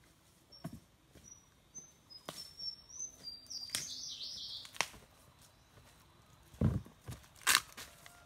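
A bird sings a thin, high series of whistled notes, ending in a brighter burst of chattering notes about four seconds in. Footsteps in rubber boots crunch and rustle on leaf litter, with the heaviest footfalls near the end.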